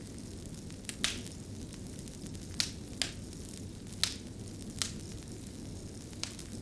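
Wood fire crackling: a steady low rumble of burning with sharp, irregular pops, about seven in a few seconds.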